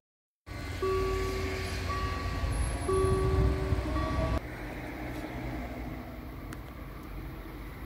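Low rumble of a passing train carrying a steady whine at two pitches, interrupted a few times. About four seconds in it cuts off abruptly, leaving a quieter rumble.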